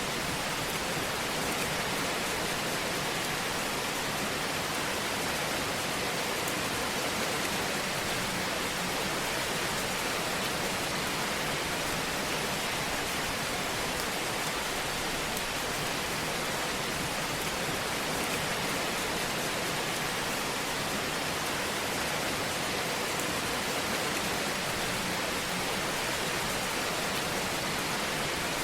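Fireplace ambience: a steady, even hiss of fire noise that sounds much like rain or white noise, without loud separate pops.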